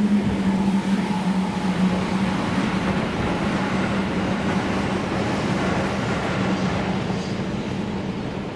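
Electric train running past: a steady rumble of wheels on rails with a low steady hum, easing off slowly near the end.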